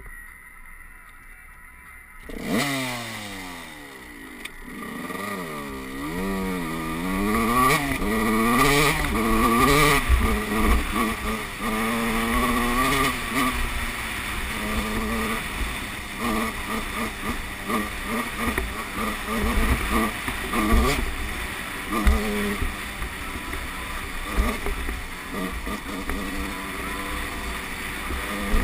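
Motocross bike engine starts about two seconds in and is revved up and down several times, then runs on continuously with the pitch rising and falling as the bike is ridden, with scattered knocks.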